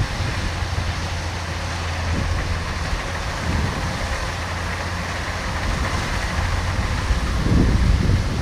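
Kubota DC-105X combine harvester running steadily while harvesting rice, its diesel engine giving a constant low hum under a dense machine noise. The sound grows a little louder near the end.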